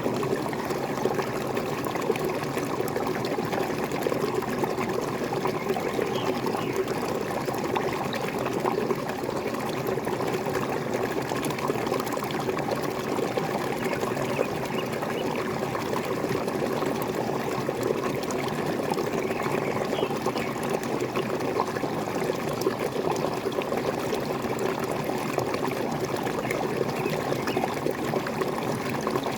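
Waterfall water splashing and trickling steadily, an even, dense rush with no change in strength.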